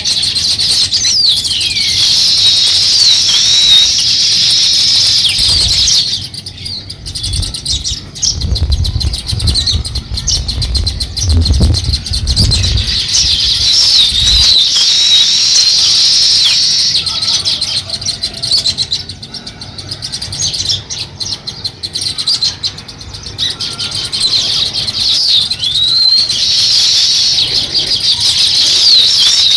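A flock of small songbirds chirping in a dense, overlapping chorus. The chirping thins out for most of the middle and grows dense again near the end, with a low rumble underneath a few seconds in.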